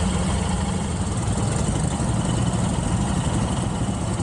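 Motorcycle engine running steadily at idle or low revs.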